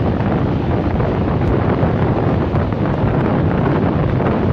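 Wind buffeting the microphone at the open window of a moving passenger train, over the steady rumble of the train running along the track.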